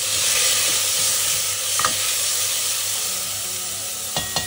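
Chopped onion and tomato sizzling in hot oil in a steel pressure cooker pot, stirred with a wooden spatula. There is a sharp knock about two seconds in and a quick run of knocks near the end.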